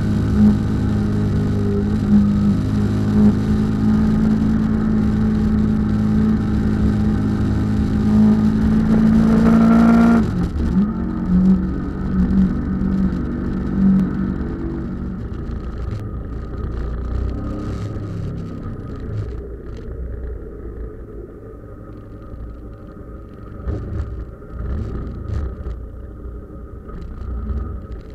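Motorcycle engine running, its pitch climbing for about ten seconds and then dropping suddenly; after that the engine sound grows quieter, with scattered short knocks.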